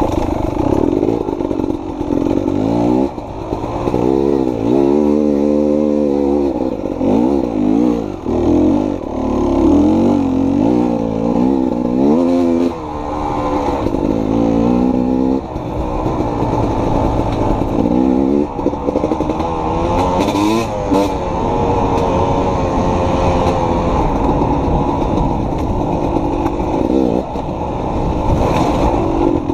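Two-stroke enduro dirt bike engine revving up and down as it is ridden through technical trail, the throttle opened and closed again and again. A couple of sharp clicks sound about two-thirds of the way through.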